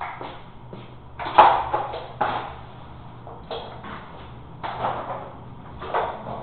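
Irregular knocks and short scrapes, the loudest knock about a second and a half in.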